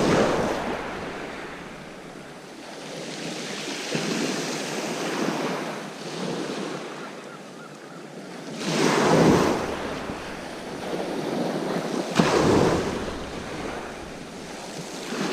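Sea waves breaking on the beach and washing back, with louder surges at the start, about nine seconds in and about twelve seconds in, and some wind buffeting the microphone.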